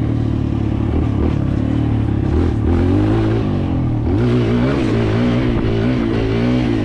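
Kawasaki KLX140L dirt bike's single-cylinder four-stroke engine being ridden, revving up and down with the throttle. Its pitch rises and falls repeatedly through the second half.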